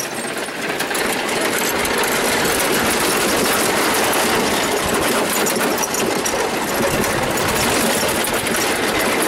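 Lawn tractor's 19-horsepower twin-cylinder engine running steadily as the tractor goes down a hill, getting louder over the first second.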